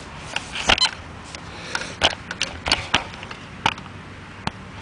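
A series of irregular sharp clicks and knocks, about a dozen over a few seconds, from handling gear and tools while getting ready to dig a detected target.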